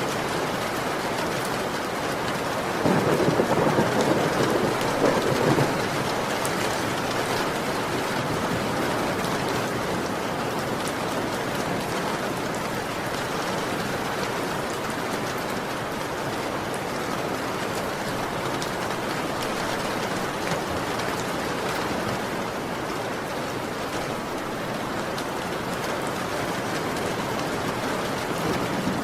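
Heavy rain falling steadily, with a rumble of thunder a few seconds in that lasts about three seconds.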